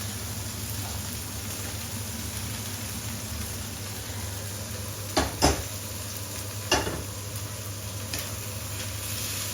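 Chicken curry sizzling in a pan with a steady hiss. Three sharp knocks of a utensil against the pan come a little past the middle.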